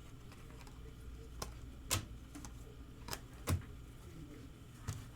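Trading cards being handled on a table, with about five sharp separate taps and clicks as cards are flipped and set down.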